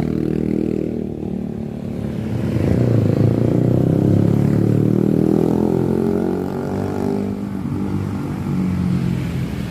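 Engine of a passing motor vehicle running, growing louder about two seconds in and fading after about seven seconds.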